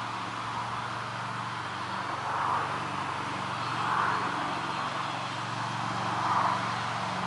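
A steady, distant engine drone, like traffic or a plane far off, under a pond frog chorus that swells every second or two.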